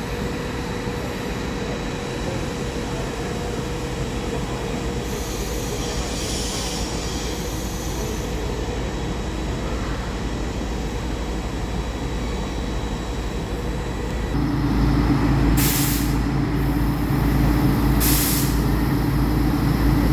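Historic train running on the rails, with a steady low rumble of wheels and running gear. About two-thirds of the way in it gets louder and a steady low droning note joins it, with two short hisses soon after.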